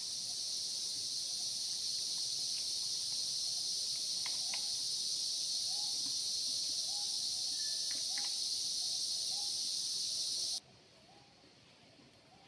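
Forest insects shrilling in a dense, steady high-pitched chorus that cuts off suddenly near the end. Faint short calls repeat in the background underneath.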